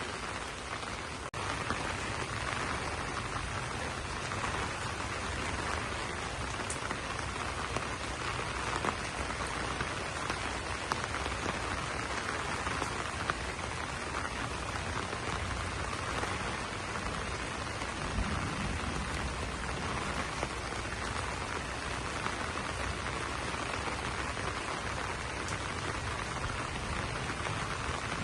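Steady rain falling on broad banana leaves, an even patter with scattered louder drops.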